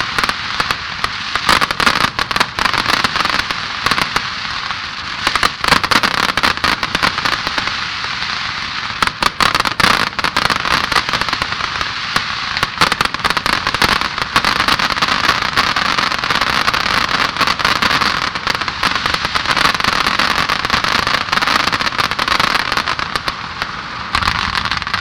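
Aerial fireworks display: a dense, continuous crackle of bursting shells with many sharp bangs mixed in.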